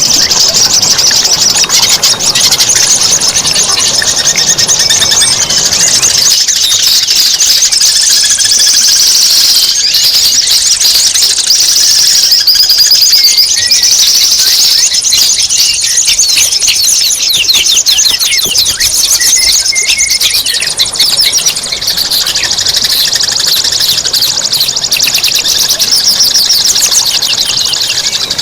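Songbird master recording: continuous, dense high-pitched chatter of rapid trills, whistles and harsh notes, the kind of song played to cage songbirds to teach them.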